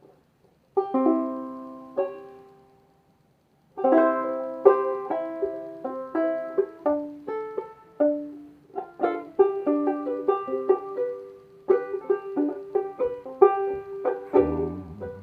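Instrumental intro on a plucked string instrument: two chords ring out about a second in and at two seconds, then after a short pause a melody of picked notes begins, with lower bass notes joining near the end.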